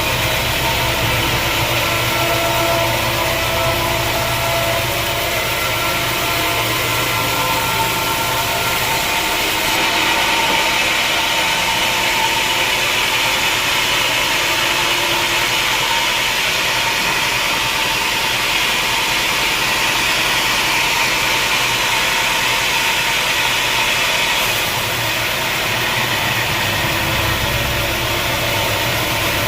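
Sawmill machinery running steadily with an engine-like drone. Between about ten seconds in and near the end, the low hum drops away and a harsher hiss comes up, then the low hum returns.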